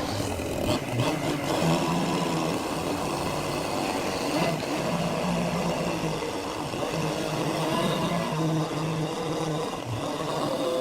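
Powered woodworking machinery running steadily under load, its low hum stepping up and down in pitch, over a broad noisy whir. It starts suddenly at the beginning.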